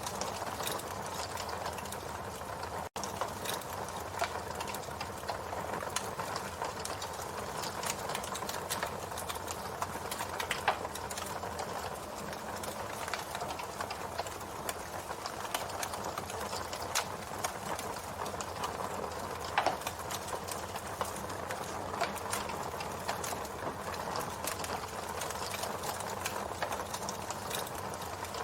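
Campfire burning, with a steady crackle of many small pops and snaps and a couple of louder pops about 11 and 20 seconds in.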